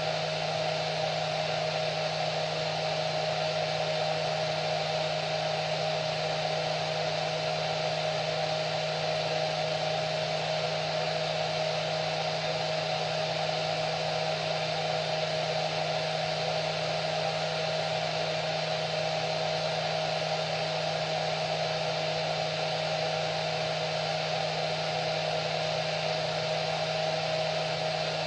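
Hair dryer running continuously: an even rush of air with a steady motor hum, unchanging throughout.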